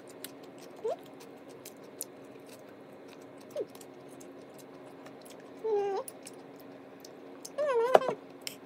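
Small mouth clicks of someone chewing food, with a few short wavering high-pitched calls, the loudest near the end, over a faint steady hum.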